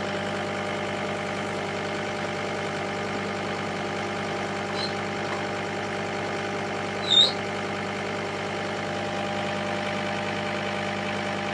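Vehicle engine idling steadily. About seven seconds in, a short high-pitched chirp rises above it.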